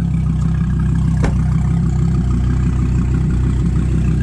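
2016 Dodge Viper's 8.4-litre V10 idling steadily shortly after a cold start, with one brief click about a second in.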